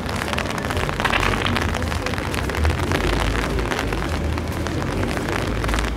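Street ambience in the rain: a fine, dense patter of raindrops over a steady low rumble.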